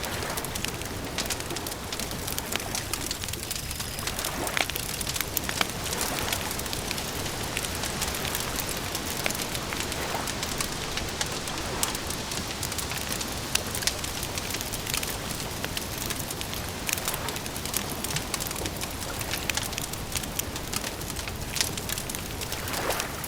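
Campfire crackling: a steady hiss of burning wood with frequent irregular pops and snaps.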